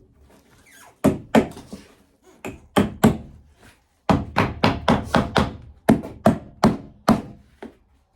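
Hammer driving a nail into wood: a few spaced blows, then a quicker steady run of about three blows a second from about four seconds in.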